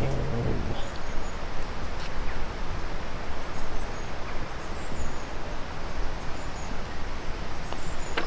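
Wind buffeting the microphone in a steady rumble, with birds chirping faintly in the background.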